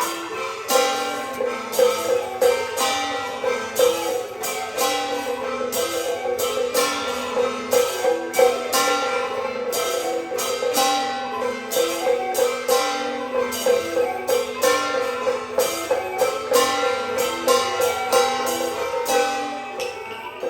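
Beiguan ensemble playing: string instruments carry a melody over frequent percussion strikes.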